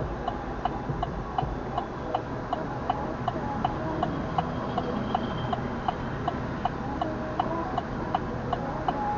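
Turn-signal flasher clicking steadily inside a truck cab, a regular tick-tock of about two clicks a second, over the low rumble of the engine and road.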